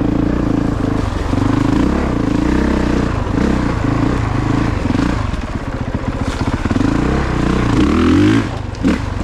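2022 Honda CRF450RX's 450 cc single-cylinder four-stroke engine revving up and down as the dirt bike is ridden over rough single track. The throttle comes off briefly near the end.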